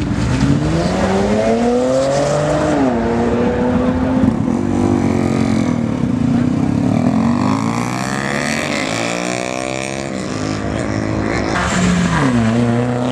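Car engines accelerating hard. One engine climbs in pitch over the first two seconds or so, then drops at a gear change and carries on; another engine note drops and climbs again near the end.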